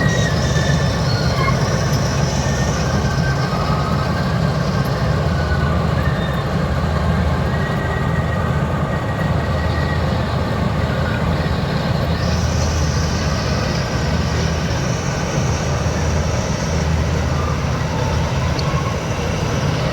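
A combine harvester's diesel engine and machinery running steadily, a heavy, continuous mechanical rumble.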